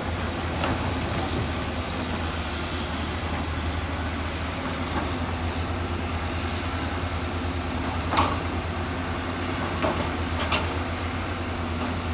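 Heavy diesel machinery running steadily with a low throbbing engine note, with a few sharp metallic clanks, the loudest about eight seconds in.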